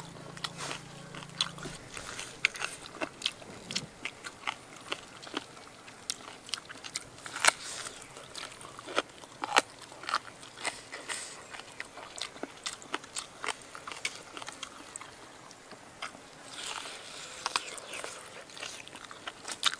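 A person chewing and biting into cooked pig ear close to the microphone: many short, irregular clicking mouth sounds.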